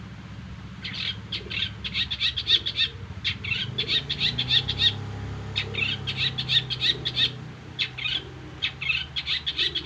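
Long-tailed shrike (cendet) singing its repertoire: rapid runs of short, sharp chirps in several bursts with brief pauses. A steady low hum runs underneath.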